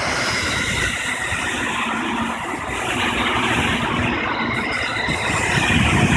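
JR West 221 series electric multiple unit passing on the rails, a steady loud rush of wheel and rail noise that grows louder toward the end.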